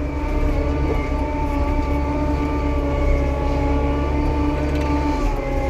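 Payloader (wheel loader) diesel engine running steadily under load, heard from inside the cab, with a deep rumble and a steady drone; the pitch dips slightly near the end as the revs ease off.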